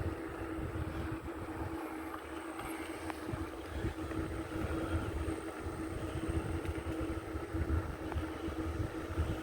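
Wind rumbling on the microphone and tyre noise while riding a bicycle, with a steady low hum underneath.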